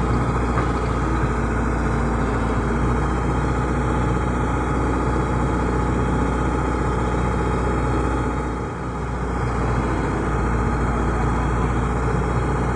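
Excavator's diesel engine running steadily, with a brief dip in level about nine seconds in.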